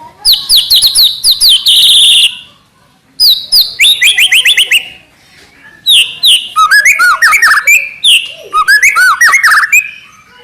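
White-rumped shama (murai batu) singing in loud, rapid-fire phrases of quickly repeated sweeping whistled notes, three phrases with short pauses between them.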